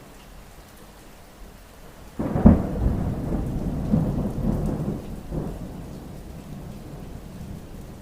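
Steady rain with a thunderclap that breaks in sharply about two seconds in, then rumbles with a few surges and dies away over the next few seconds.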